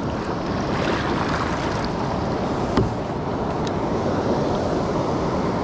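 Fast river current rushing and splashing around a kayak, with wind buffeting the microphone; a single sharp knock a little under three seconds in.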